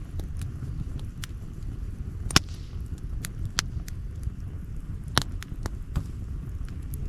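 Campfire crackling, with irregular sharp pops from the burning wood; the loudest snaps come about two and a half and five seconds in. A steady low rumble runs underneath.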